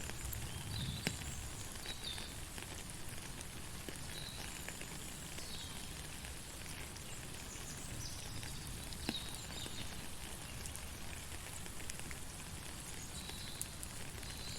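Steady rain falling, with the odd sharp drip, and short high chirps from an animal repeating every second or two.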